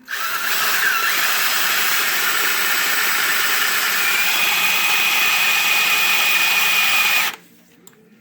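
Electric drill running steadily for about seven seconds, then stopping abruptly. It is turning the Ford 302 V8's oil pump through the distributor hole to prime the engine's oil system and build oil pressure. A steady higher whine joins about halfway through.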